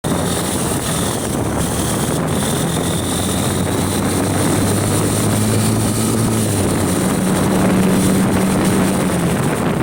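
Heavy wind rushing over the microphone of a moving Honda Unicorn 160 motorcycle, with the bike's single-cylinder engine humming underneath, its pitch shifting a little in the second half.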